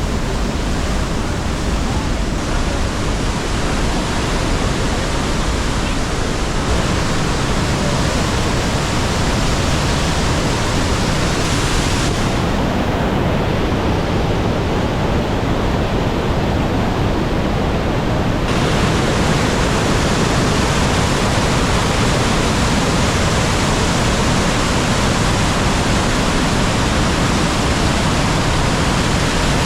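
The Rhine Falls crashing close by: a loud, steady rush of falling water that fills the whole range. The highest hiss dulls for a few seconds about halfway through.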